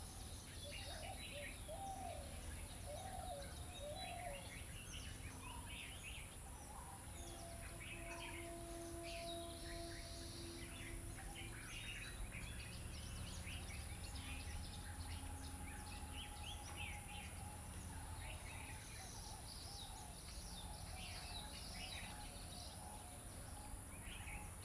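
Birds chirping and calling faintly, many short chirps scattered throughout, over a steady low background rumble.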